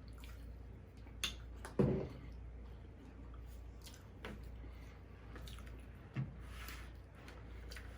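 Close-miked eating sounds: a few scattered wet mouth clicks and smacks from someone chewing fried catfish, the loudest a little under two seconds in.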